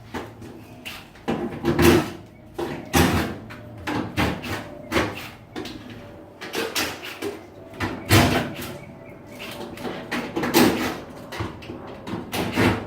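About ten irregular knocks and clatters, some ringing briefly, as the damaged washing machine's panels and lid and the nearby cabinets are handled and inspected.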